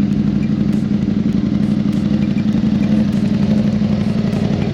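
Motorcycle engine idling steadily close by, with a fast even firing pulse; it cuts off suddenly at the end.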